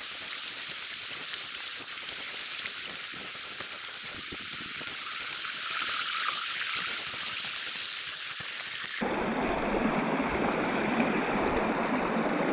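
Steady hiss of rushing water from a river running high after floods. About nine seconds in, the sound changes abruptly to a fuller, deeper rush.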